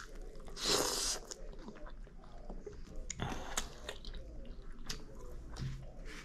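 Close-miked chewing of a mouthful of food, with scattered small wet clicks and smacks of the mouth. A short breathy rush of noise comes about a second in.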